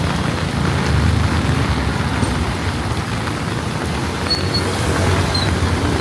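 Heavy rain hissing on a city street while traffic passes, with the low drone of a vehicle engine under it.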